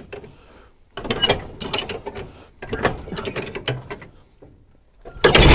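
UAZ 469's four-cylinder petrol engine being cranked by its starter in two bursts of a second or so each, then catching and starting to run loudly near the end. It is a cold start after about two months standing, cranked with a little throttle and the choke pushed back in so it doesn't flood.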